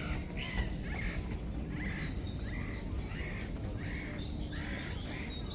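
A chorus of many small birds chirping and calling, with short overlapping chirps several times a second, over a low background rumble.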